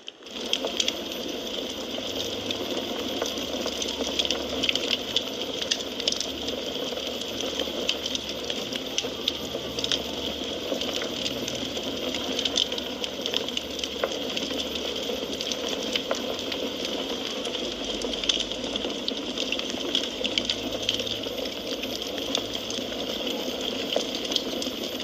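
Wood fire crackling steadily: a dense run of small, irregular pops and snaps over a constant hiss. The sound cuts out for a split second right at the start.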